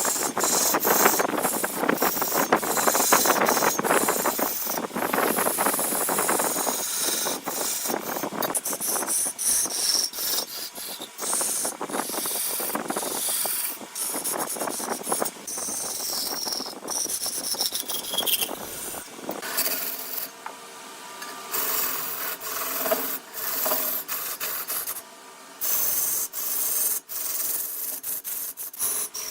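Wood lathe running while a hand-held turning tool scrapes and cuts the spinning wood, with many short clicks. The scraping is heavy for most of the time, then lighter after about twenty seconds, when the lathe's steady hum shows through.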